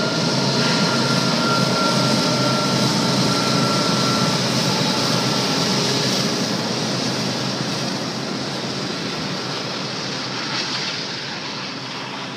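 Union Pacific diesel-electric freight locomotives passing close by with their engines running, followed by covered hopper cars rolling along the rails; the sound eases off toward the end as the locomotives go by.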